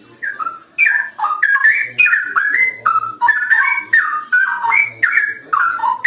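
Straw-headed bulbul singing a loud, rapid phrase of rich, gliding whistled notes that tumble up and down without a break.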